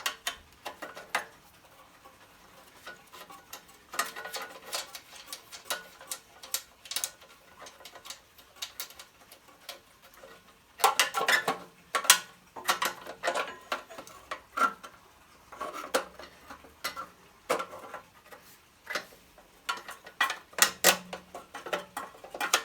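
Metal hand tools clicking and clinking against an old Honda generator's metal parts as bolts are worked loose: a run of small irregular ticks, then busier clusters of clinks and knocks about halfway through.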